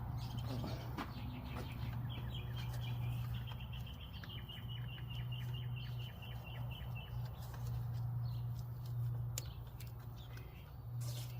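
A bird sings a fast trill of evenly repeated high chirps lasting about five seconds, over a steady low hum, with a few light clicks near the end.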